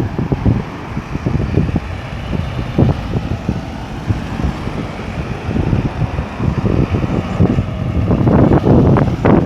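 Road traffic moving through a busy roundabout: vehicles running past in a continuous low rumble that swells near the end.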